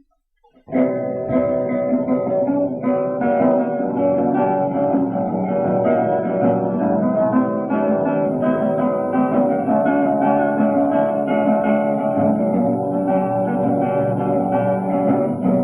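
Strummed acoustic guitar playing the song's instrumental introduction, starting suddenly about a second in and running on steadily.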